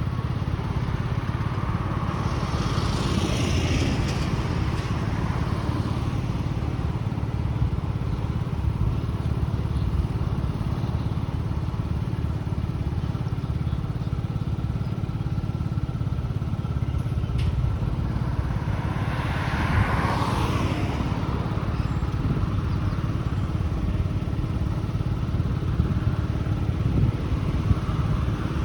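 Small motorcycle engine running steadily while riding, a constant low rumble under road and wind noise. Twice, once early and once about two-thirds through, a louder swell sweeps down in pitch, like something passing by.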